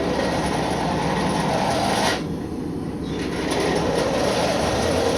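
A steady mechanical rumble with two long stretches of rushing, grinding-like noise, each about three seconds, separated by a short lull about two seconds in.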